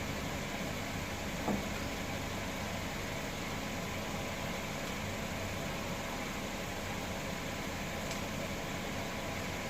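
Steady mechanical hum with an even hiss, with one brief knock about one and a half seconds in.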